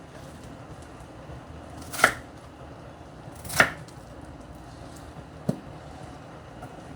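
Knife chopping through yellow yam onto a cutting board: two sharp chops about a second and a half apart, then a lighter knock.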